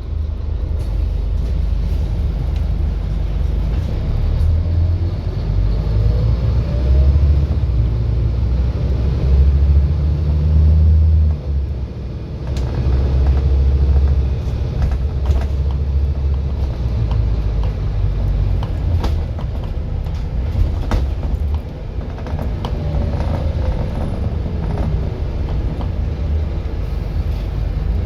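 Scania N230UD double-decker bus's five-cylinder diesel running under way: a low engine drone with a whine that rises about five seconds in and another that falls near the end, and scattered rattles and knocks.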